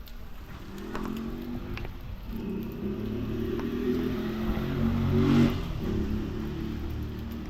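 A car engine running, its low hum growing louder to a peak about five seconds in, then easing off.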